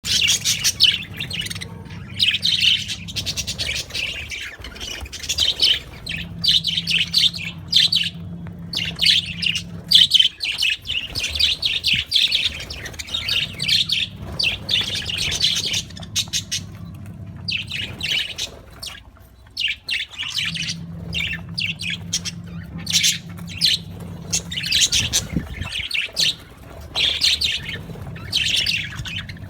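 Pet budgerigars chirping and chattering, with many quick overlapping calls all the way through. A low steady hum starts and stops several times underneath.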